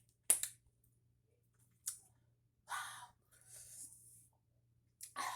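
Eating sounds close to the microphone while chewing a chicken sandwich: a few sharp mouth clicks and smacks with short breaths between them, over a faint steady low hum.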